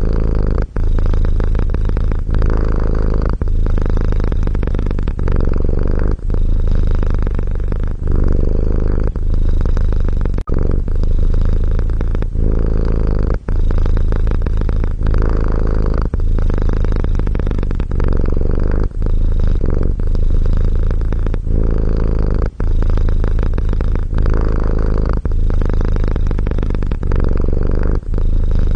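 Domestic cat purring steadily and loudly, a deep rumble that pulses with its breathing, with a brief break between breaths about every one and a half seconds.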